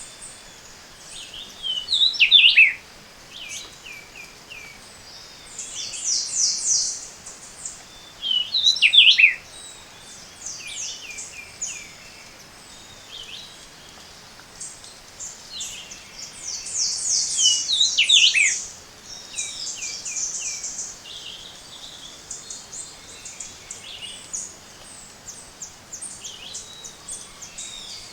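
Morning chorus of tropical forest birds, with several species singing. A short song of notes falling in pitch comes three times and is the loudest sound. Between these come bursts of fast, high-pitched repeated notes over a faint steady background.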